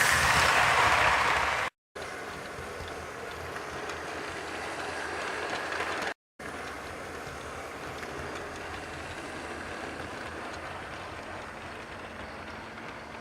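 Model train running on a layout's track: a steady running noise, loud and hissy for the first couple of seconds and then lower and even, broken by two abrupt cuts.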